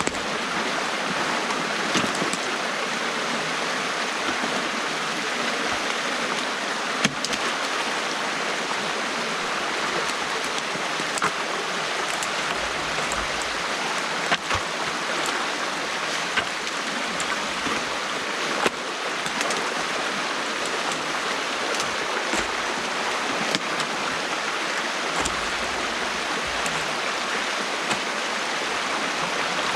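Stream water rushing steadily through a beaver dam that is being opened up, with a few sharp clicks or knocks now and then.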